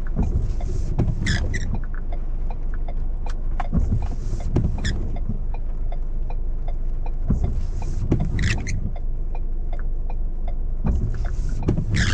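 Car driving, heard from inside the cabin: a steady low engine and road rumble, with a swishing sound about every four seconds and scattered sharp ticks.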